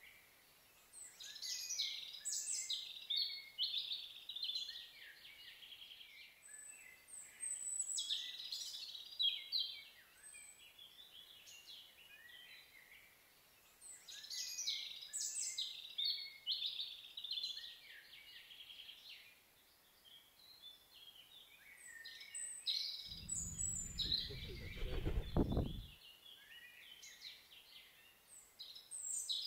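A songbird sings in phrases a few seconds long, separated by short pauses, over a faint outdoor background. About three quarters of the way through, a low rumble lasts about three seconds.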